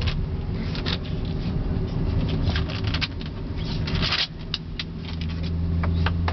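Car running with a steady low drone that grows louder about five seconds in, over many short, irregular clicks and taps.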